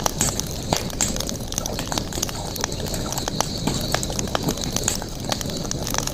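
Campfire crackling: wood burning with irregular sharp pops and snaps, over a steady background hiss.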